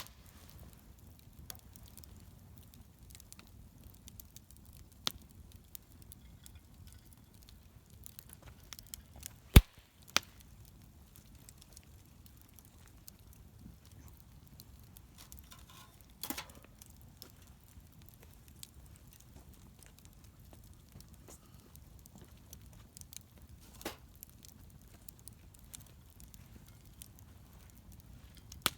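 Wood bonfire crackling: scattered sharp pops and snaps over a low, steady rumble of the burning fire. The loudest pop comes about a third of the way in.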